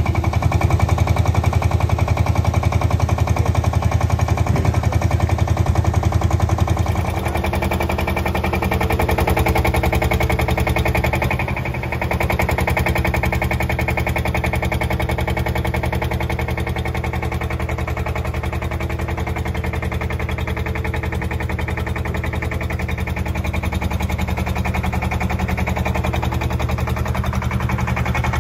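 An engine running with rapid, even chugging, dropping slightly in level about seven seconds in.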